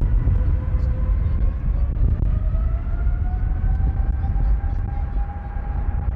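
Jet engines of a Boeing 777-300ER running, with a heavy deep rumble and a whine that rises in pitch over the first few seconds and then holds steady.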